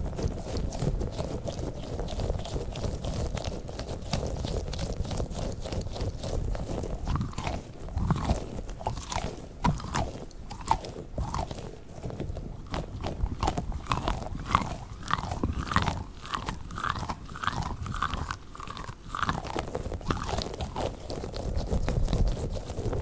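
Squishy balls being squeezed and rubbed close to the microphone: a dense crackly squishing, with short squeaks that begin about a third of the way in and come thick and fast in the later part.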